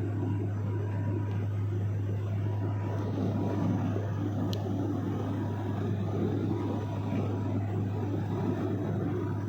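Steady engine drone heard from inside the cabin of a small private airplane: a constant low hum with a thin steady whine above it, unchanging throughout.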